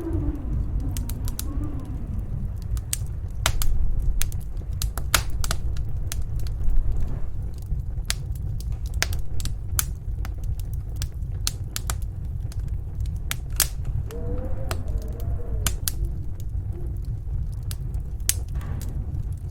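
Wood fire crackling in a fireplace, with sharp irregular pops and snaps, over the steady low rumble of snowstorm wind. The wind rises into a wavering howl near the start and again about fourteen to sixteen seconds in.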